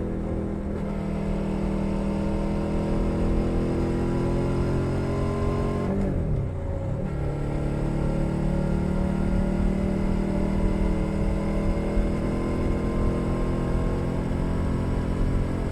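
2021 Suzuki SV 650's 645 cc V-twin running through a Leo Vince Nero exhaust, heard from under the seat while riding. The engine note climbs slowly, dips sharply and recovers about six seconds in, then pulls steadily.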